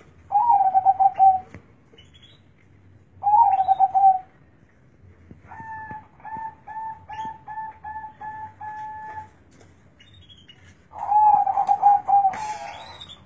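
Zebra dove (perkutut) cooing: three loud rolling, trilled coos, with a quieter run of about eight short, evenly spaced coo notes between them. A brief rustle near the end.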